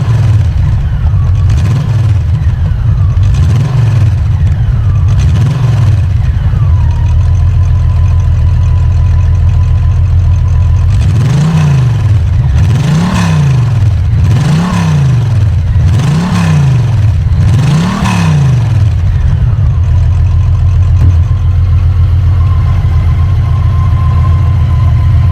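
Honda Valkyrie Rune's 1800cc flat-six engine idling, with three light throttle blips in the first few seconds. After that come five quicker revs about a second and a half apart, and then it idles steadily again.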